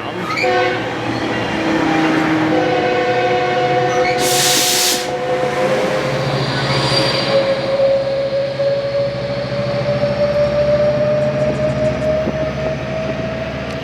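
Metrolink commuter train locomotive passing while slowing down, its engine giving a vacuum-cleaner-like whine that rises slightly in pitch over a low hum. A chord of horn-like tones sounds over the first few seconds, and a short hiss comes about four seconds in.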